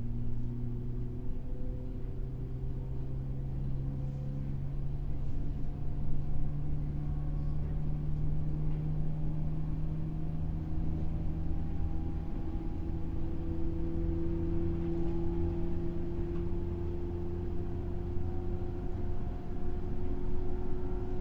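JR West 103 series electric train's MT55 DC traction motors and gearing running under the car, heard on board: a low rumble with a whine that rises slowly in pitch as the train gathers speed.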